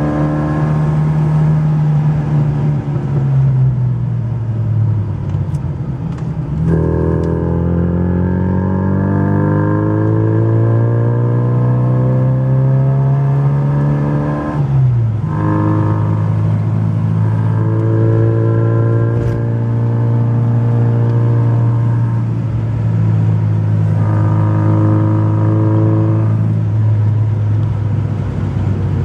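Mini Downton's A-series four-cylinder engine on the road. The revs fall about three seconds in, then climb steadily for about eight seconds under acceleration. A gear change comes about halfway through, and the engine then runs at steady revs.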